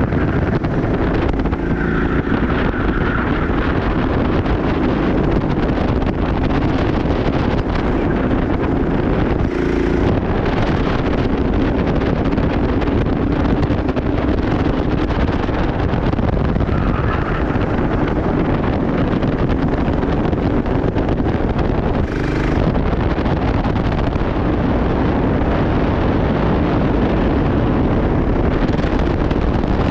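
Loud, steady rumble of wind buffeting a moving microphone, with two brief knocks about ten and twenty-two seconds in.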